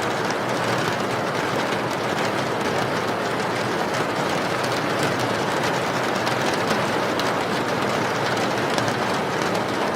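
Steady rain falling, an even hiss with faint tapping of drops.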